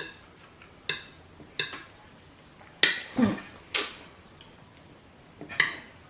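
Cutlery clinking against a plate while eating, about six separate sharp clinks with a short ring, spaced unevenly.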